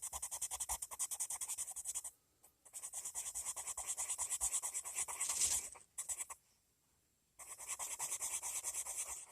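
Coloured pencil shading back and forth on paper: a quick run of high scratchy strokes, stopping twice for a second or so before starting again.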